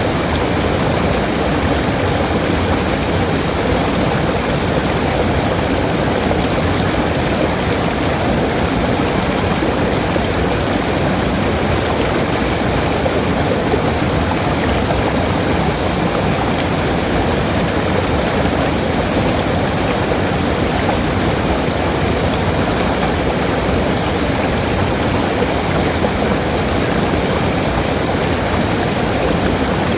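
Waterfall: water falling and rushing in a loud, steady noise that does not change.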